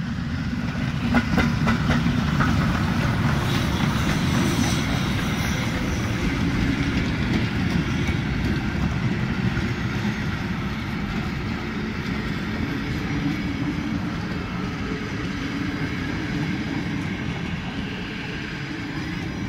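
Ty42 steam locomotive and its tender rolling past, followed by a long rake of passenger carriages, a steady rumble with wheel clatter on the rails. Loudest about a second or two in, with a few sharp clicks as the engine passes, then easing slowly as the carriages go by.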